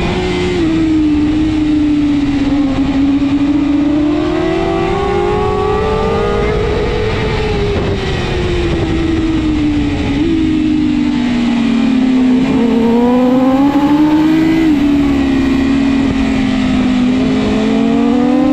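BMW S1000RR superbike's inline-four engine at racing speed. Its pitch climbs and falls in long sweeps as the throttle opens and closes, with sudden jumps in pitch at the gear changes, over steady wind rush.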